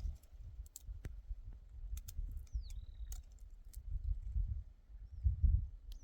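A bird calling: a thin whistle that slides down and then holds on one note, heard twice about three and a half seconds apart, over a low rumble and scattered small clicks.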